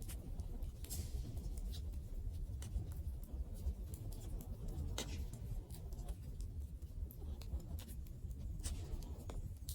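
Wood fire crackling: irregular sharp pops and snaps of burning wood, a few seconds apart, over a low steady rumble of the flames.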